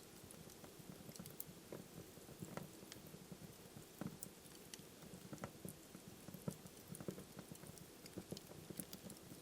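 Wood fire burning in a fireplace, crackling softly: a low steady rustle of flames with irregular small pops and snaps from the burning logs.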